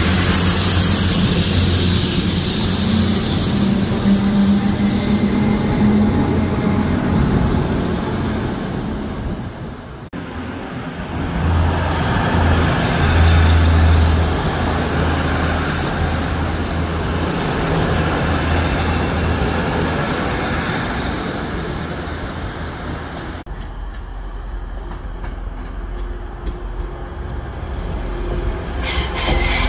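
Passenger trains running past on the tracks, a steady low drone with rail noise, in three clips cut together: the sound changes abruptly about ten seconds in and again about two-thirds of the way through. Sharp clicks come near the end as the last train passes.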